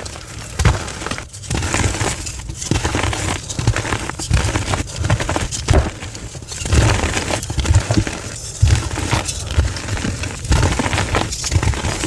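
Blocks of gym chalk being crushed, a quick run of crunching and crumbling noises with soft low thumps, played back at double speed.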